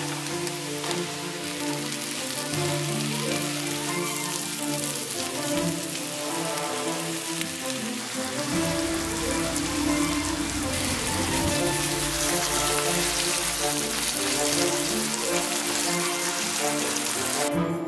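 Sliced mushrooms and onions sizzling in hot oil in a frying pan, a steady crackling hiss, with background music.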